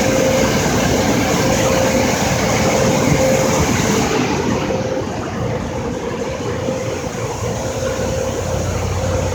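Car-wash blow dryers blasting air over the car, heard from inside the cabin: a loud, steady rush of air with a steady fan whine. The highest hiss drops away about four seconds in.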